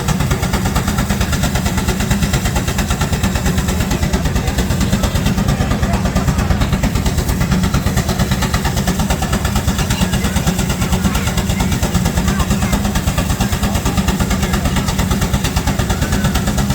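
Steam traction engine working hard under a belt load, its exhaust chuffing in a rapid, steady beat.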